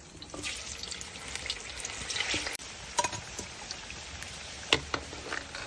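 Potatoes and beef frying in oil in a kazan: steady sizzling full of small crackling pops, with two sharp clicks partway through.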